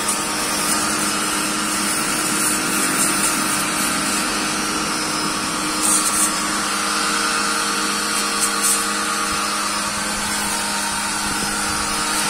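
A small motor running steadily with a constant hum, with brief high-pitched bursts twice.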